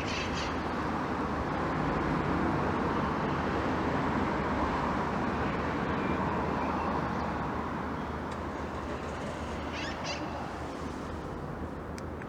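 Old-town city street ambience: a steady broad hum of the street that swells and eases over several seconds in the middle. Short high bird chirps come near the start and again about ten seconds in, with a couple of faint clicks near the end.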